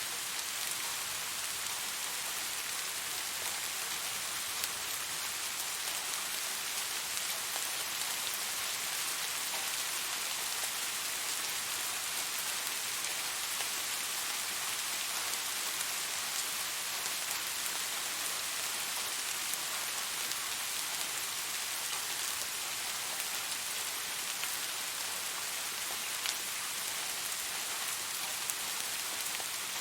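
Steady rain falling: an even hiss with the odd sharper drop tick.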